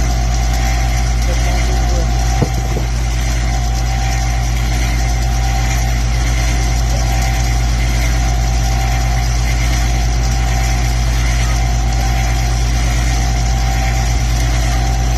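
Dishwasher pump running on the rinse/drain cycle with a steady hum. There is one sharp click about two and a half seconds in.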